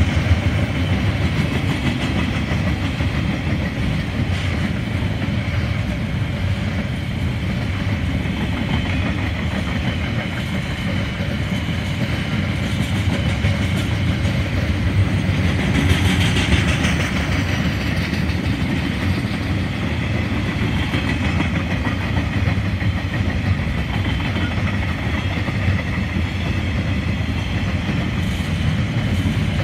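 Long freight train of container wagons rolling past: steel wheels running on the rails in a steady, continuous noise.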